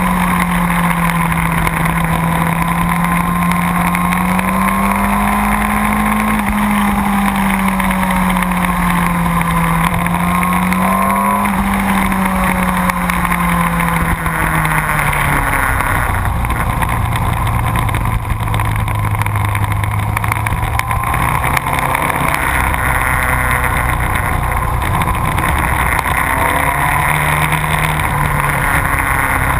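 Motorcycle engine running under riding load, its pitch rising and falling with the throttle, then dropping lower about halfway through and holding there, with a brief rise near the end.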